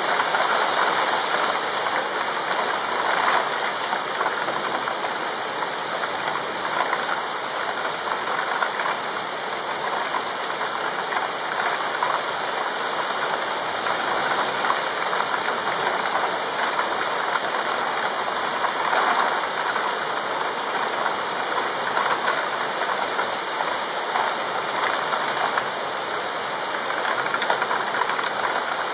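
Thunderstorm rain pouring steadily, an even hiss with no thunder in it.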